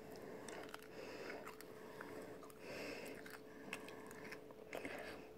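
Faint mouth sounds of chewing a sun-dried mulberry, a small dried fruit that is crunchy like granola at first and then chewy like a raisin: soft scattered clicks and squelches, with a steady faint hum underneath.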